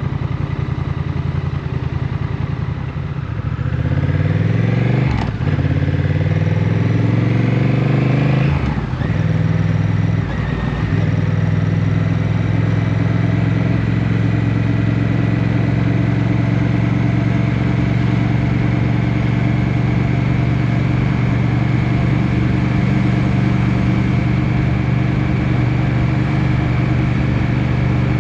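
Motorcycle engine accelerating, its pitch rising and then dropping at two gear shifts, then running at a steady speed.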